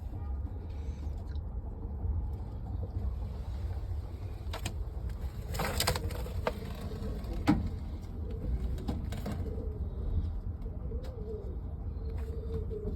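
Domestic pigeons cooing, with low wavering coos near the end, over a steady low rumble and a few brief clicks and rustles.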